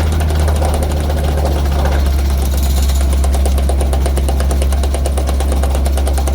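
Chipping hammer rattling rapidly against hardened concrete set inside a ready-mix mixer drum, over the steady low drone of a running engine. The hammering gets denser about halfway through.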